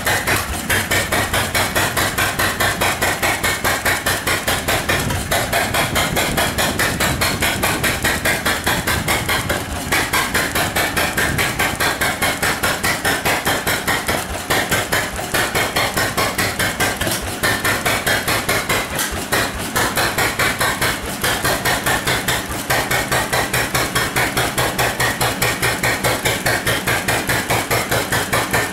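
Cérès M1B series 4 engine running steadily, with an even, rapid beat of firing strokes.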